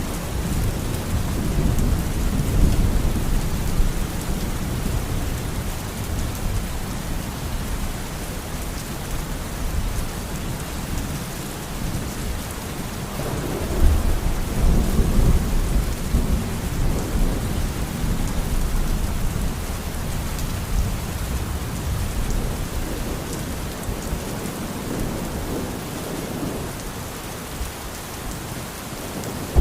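Steady heavy rain with low rolling thunder rumbling beneath it, the rumble swelling about halfway through and easing off again.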